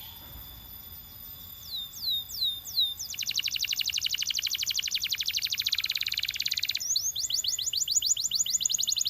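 Canary singing: a few falling whistles, then a fast, rattling trill lasting about four seconds, then a run of quick repeated sweeping notes, about six a second.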